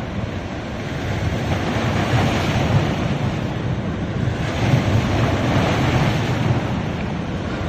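Ocean surf breaking and washing up a beach, building in two swells, with wind buffeting the microphone.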